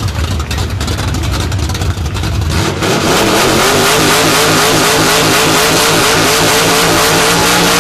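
Chevy Nova's 400 small-block V8 running through open headers: it runs rough and lumpy for a couple of seconds, then is revved hard about two and a half seconds in and held at high revs, dropping back at the very end.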